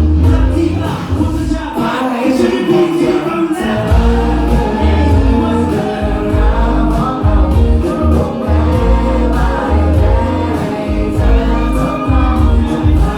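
Live band music with singing over a heavy, pulsing bass.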